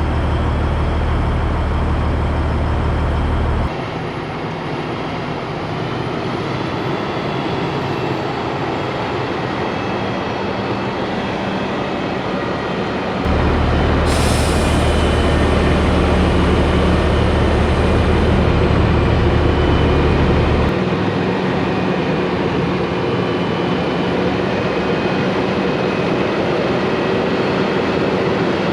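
Heavy diesel truck engine and road noise, steady, from a Peterbilt 362 cabover on the road. The sound jumps abruptly in level and pitch three times, and there is a brief hiss about halfway through.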